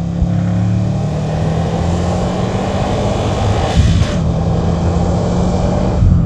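Turbocharged 2.5-litre boxer engine of a 2007 Subaru Impreza WRX STI, tuned to 400 hp, running steadily while driving and getting slightly louder toward the end. A brief hiss about four seconds in.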